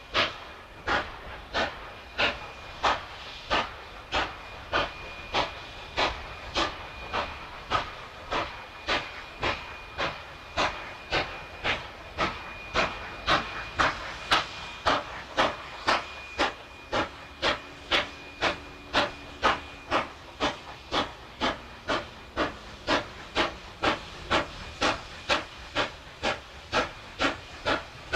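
A NSW C38 class steam locomotive working steadily, its exhaust beats coming in an even rhythm of about two a second over a continuous steam hiss.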